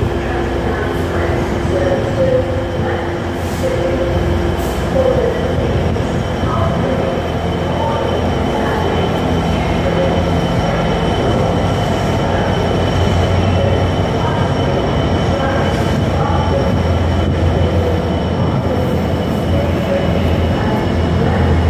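A container freight train hauled by a Class 66 diesel locomotive runs past with a steady deep engine drone and the rumble of its wagons. A thin, steady high squeal from the wheels on the rails runs over it.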